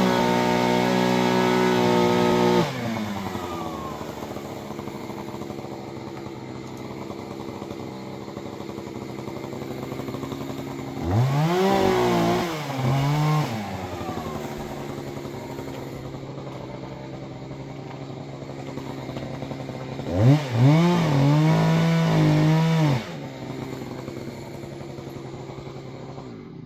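Gas chainsaw running: it is revved up to a high, steady full-throttle pitch three times, for two to three seconds each, and drops back to a lower idle in between.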